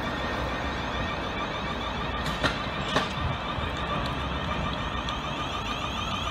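Class 444 electric multiple unit running into the platform alongside a freight train of tank wagons rolling past on the next line: a steady rumble of wheels on rails with a thin, steady whine, and a couple of sharp wheel clicks over rail joints midway.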